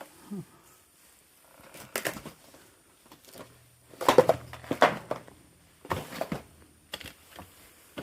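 Footsteps crunching and shuffling over debris and clutter, with the loudest crunches about four to five seconds in.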